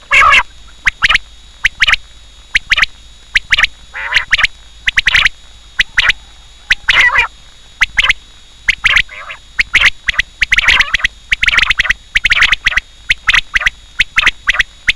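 Quail calling: a dense, irregular series of short, sharp calls, with a few longer, harsher calls among them.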